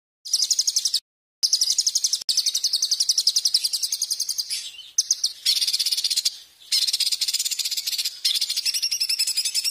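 A songbird's shrill, rapid trill: a dozen or more high notes a second, in phrases of one to a few seconds broken by short, abrupt silences. This is a bird-song training (masteran) recording.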